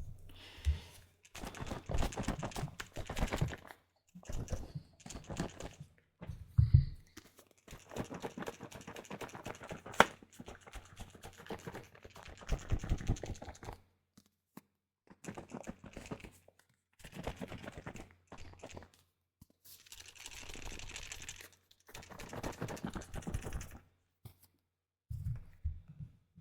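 Typing on a keyboard in uneven bursts of rapid clicks with short pauses between them, and a few louder knocks.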